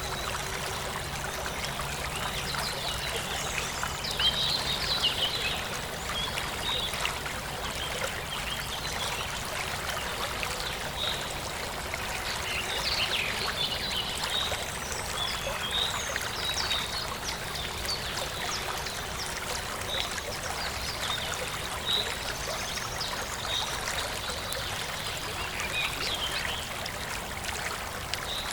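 Forest stream trickling and flowing steadily, with birds chirping on and off over it, the chirps busiest about four seconds in and again around thirteen seconds.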